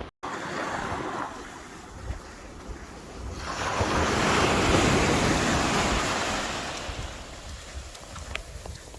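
Sea surf breaking on the shore: one wave surges in about three and a half seconds in and washes away again by about seven seconds, over the steady wash of the sea. Wind buffets the microphone.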